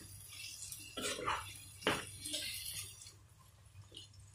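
Spatula stirring chickpeas through a thick masala in a pan, with two sharp knocks of the spatula against the pan about one and two seconds in; the stirring fades in the last second.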